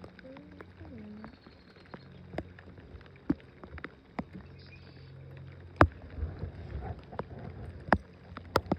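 Scattered sharp knocks and clicks on a small fishing boat, like gear bumping the hull, over a low steady hum. The loudest knocks come about six and eight seconds in.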